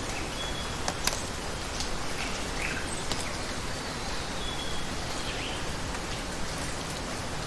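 Steady hiss of rainforest water with a few sharp drip-like clicks, overlaid by short bird chirps and brief high whistled notes now and then.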